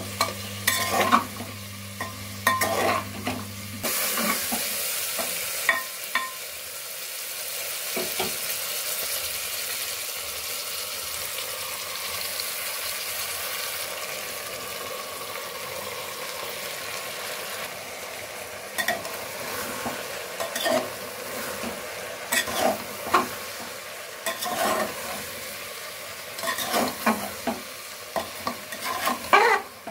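Vegetables frying in oil in a metal pot, a steady sizzle under the scraping and clacking of a spatula stirring against the pot. About four seconds in the stirring stops and the sizzle runs on steadily. Later the clacking stirring returns as the lentils and rice fry with the vegetables.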